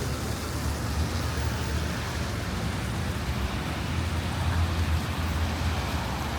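Steady roadside traffic noise: passing cars giving an even rumble and hiss, with no sudden events.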